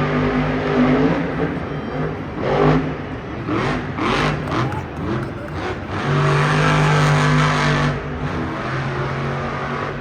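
Monster truck engines running and revving, a loud held engine tone that swells and fades, strongest for about two seconds after the middle.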